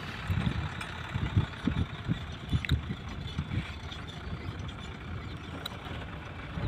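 Diesel engine of heavy machinery running steadily, with irregular low thumps.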